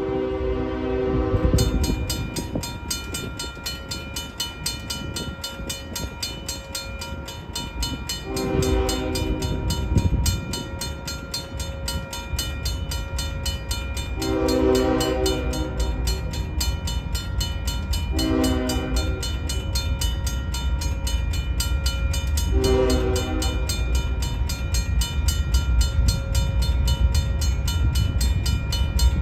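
Diesel freight locomotive's air horn sounding about five blasts of a second or two each, over the steady rumble of the moving train.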